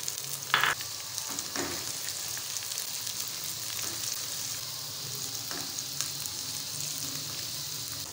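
Onion, ginger-garlic paste and freshly added ground tomato sizzling steadily in hot oil in a non-stick wok while a silicone spatula stirs and scrapes through the masala. A sharp knock comes about half a second in, with softer scrapes later.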